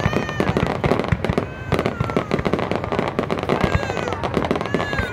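Fireworks display going off: a dense, continuous run of bangs and crackles, with short gliding whistles or shouts over it now and then.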